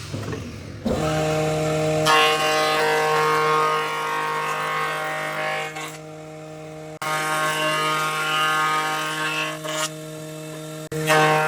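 An electric power tool running steadily on wood, a constant pitched hum over a rasping noise. The sound breaks off abruptly twice and starts again.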